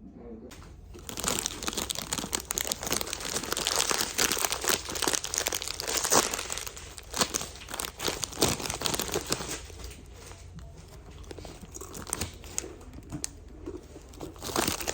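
Close crinkling and rustling handling noise, dense for about nine seconds, then thinning to scattered crackles.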